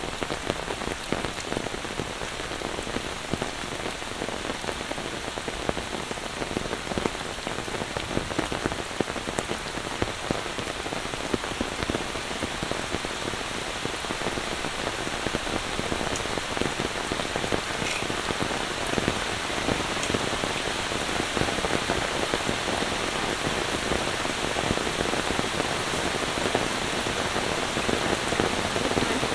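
Steady monsoon rain falling and pattering on surfaces, a dense hiss of drops with fine individual drop hits, growing a little heavier in the second half.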